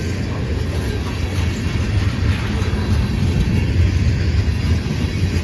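Freight cars of a long CSX freight train rolling past on the track, a steady low-pitched noise with no distinct wheel clicks.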